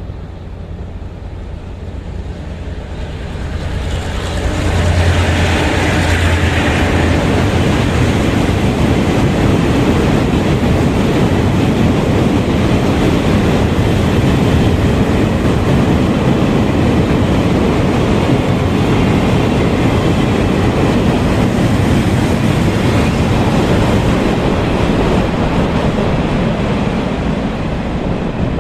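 A train passing close by: the noise rises over the first five seconds, then holds steady and loud.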